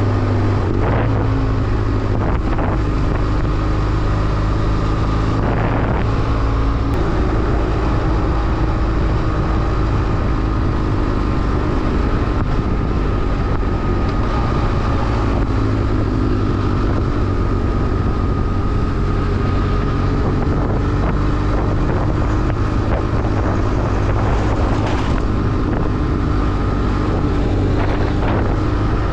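BMW F800R's parallel-twin engine running under way at a mostly steady note, with brief changes in the note about a second and about six seconds in. Wind rushes over the microphone throughout.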